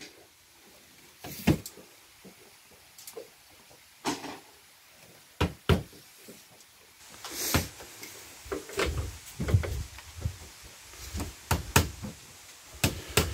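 Irregular knocks and taps of building work, about a dozen spread through, some sharp and some duller, growing busier in the second half.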